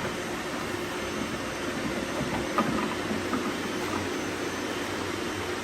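Many robot vacuums running at once: a steady whir of their suction motors and brushes, with a couple of faint knocks about two and a half and three seconds in.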